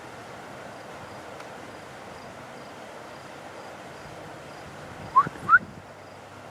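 A bird gives two short, rising call notes about five seconds in, over a steady outdoor background hiss.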